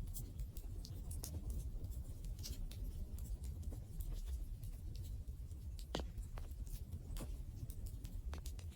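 Campfire crackling: irregular sharp pops and snaps over a low, steady rumble, with a few louder snaps past the middle.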